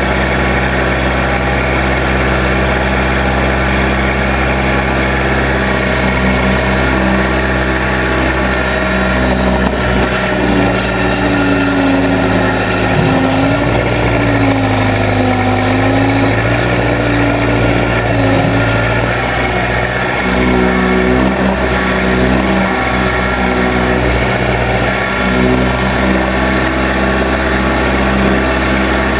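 Engine of a Case 580B backhoe running steadily. Part of its sound wavers up and down in pitch for several seconds in the middle.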